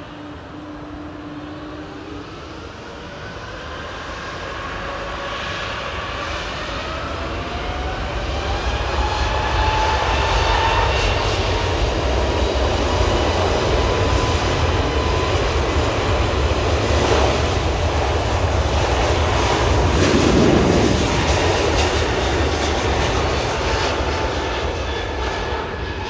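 Airbus A320 jet engines at takeoff power: a whine rising in pitch over the first several seconds under a growing low rumble, loudest about three-quarters of the way through as the airliner passes, then easing slightly.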